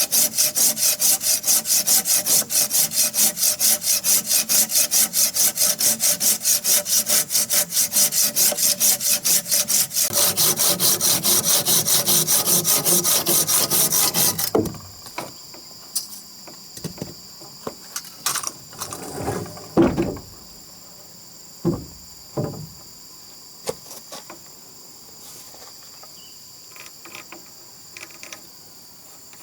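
Wood being worked by hand with fast, even rasping strokes, which stop abruptly about halfway through. After that come a few scattered wooden knocks over a steady high chirring of insects.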